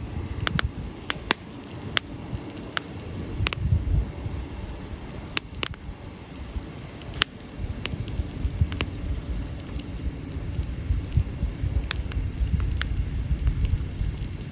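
Wood campfire crackling: irregular sharp pops and snaps, a few a second at most, over a steady low rumble.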